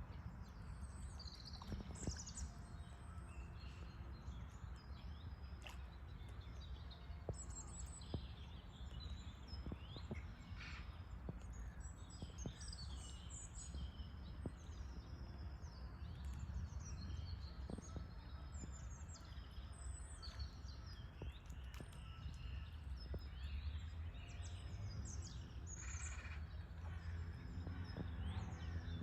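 Many small birds chirping and calling in quick, overlapping bursts of high notes, over a steady low rumble of background noise.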